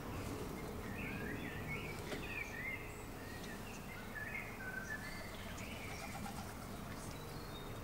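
Garden birds chirping in many short, bending notes throughout, over a steady low background rumble.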